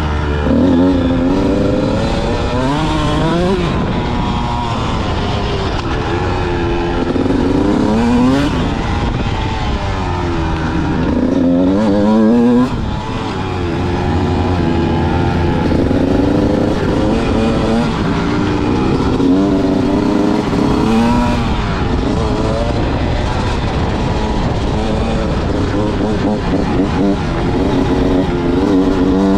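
Motocross motorcycle engine revving hard, its pitch climbing and dropping again and again as the throttle is opened and shut through the track.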